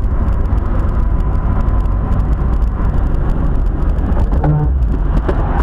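A vehicle driving, heard through a dashcam: steady low engine and road rumble, starting abruptly.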